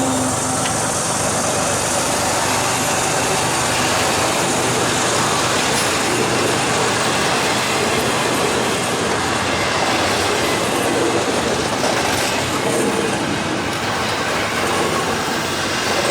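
Freight train's cars rolling past as it climbs a grade, a steady noise of steel wheels on the rails.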